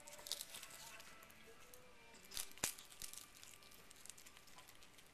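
A cat chewing and tearing a dried seaweed sheet: a run of crisp crackles and crunches, with the loudest snaps a little past two and a half seconds in.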